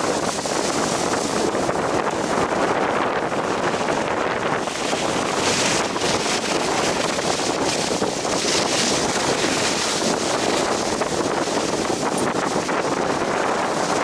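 Strong wind blowing across an action camera's microphone: a steady, loud rushing noise with no break.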